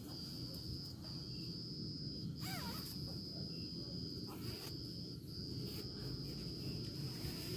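A forest insect trilling in one steady high-pitched tone, broken by a few brief pauses, over a low rumbling background. A short warbling call rises and falls about two and a half seconds in, and a few faint clicks come and go.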